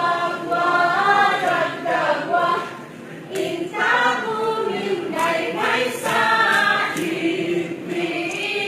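Group of voices singing a chant unaccompanied, in phrases with a short pause about three seconds in.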